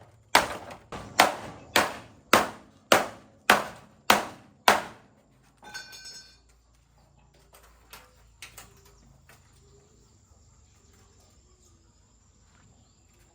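Hammer blows struck in a steady rhythm, about eight of them a little over half a second apart, stopping about five seconds in; a few faint knocks follow.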